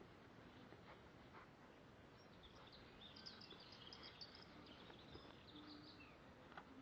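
Near silence outdoors, with faint, scattered high bird chirps coming and going from about two seconds in.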